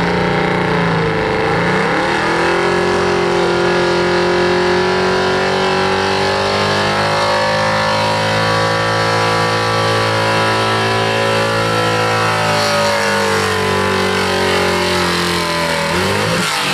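Pulling truck's engine running at high revs under heavy load during a truck pull. It dips briefly about a second in, climbs and holds high, then sags slowly before dropping off sharply at the very end.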